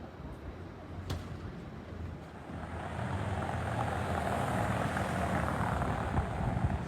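A vehicle going by on the road, its noise swelling from about a third of the way in and staying loud to the end. A sharp click about a second in.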